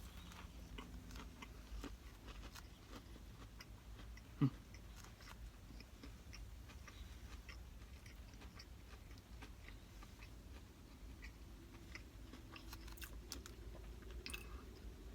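A person chewing a mouthful of breaded spicy chicken sandwich, with faint crunchy clicks throughout. One brief louder low mouth or throat sound comes about four and a half seconds in.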